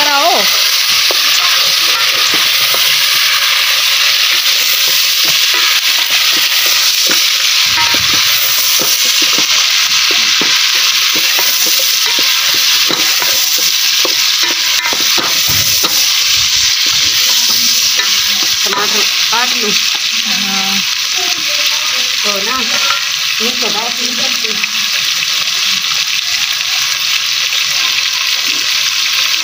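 Chicken pieces frying in hot oil with browned onions and garlic in a large aluminium pot, sizzling steadily while a ladle stirs and scrapes them around: the meat is being browned after the onions.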